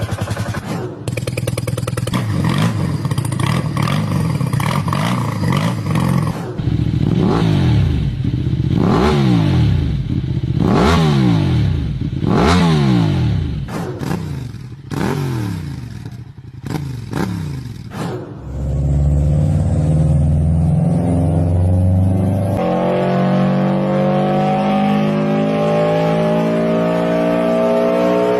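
A series of engine sounds. One engine runs steadily, then an engine is revved sharply again and again, one blip every second or two. A deep, low engine note follows about two-thirds in, and near the end an engine accelerates with its pitch climbing steadily.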